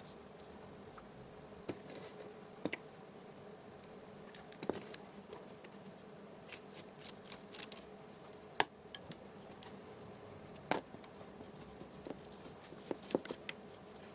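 Irregular light clicks and knocks of small parts being handled, a dozen or so spread unevenly, the sharpest about two-thirds of the way in, over a faint steady hum.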